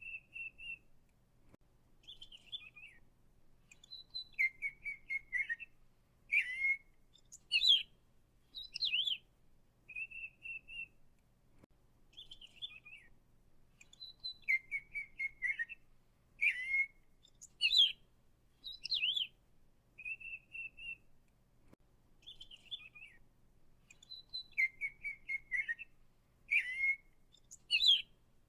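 A songbird singing a series of short whistled phrases: clear level notes, down-slurred notes and quick trills. The same sequence of phrases recurs about every ten seconds.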